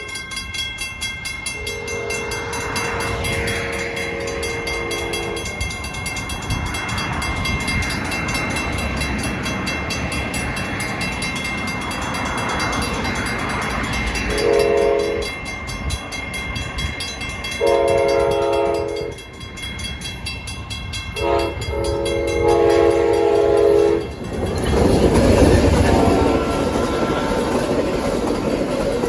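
A WCH mechanical crossing bell rings rapidly and steadily while an approaching GE P42DC passenger locomotive sounds its horn in five blasts: a long one, then a short, a long, a short and a final long blast. Near the end the locomotive passes with a loud rumble of engine and wheels on the rails.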